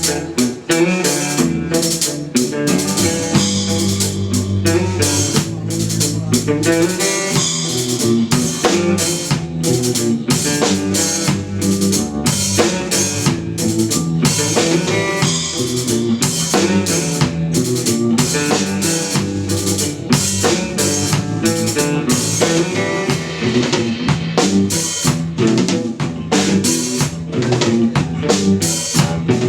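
Live instrumental post-rock played by a trio on drum kit, electric bass and electric guitar, the drums busy with snare, rimshots and bass drum over sustained bass and guitar notes.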